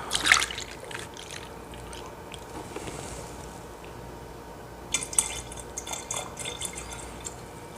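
Carpet-cleaning detergent being poured into a capful and into a carpet cleaner's water tank: liquid pouring and dripping, with a sharp plastic knock just after the start and a cluster of small ticks and trickles about five seconds in.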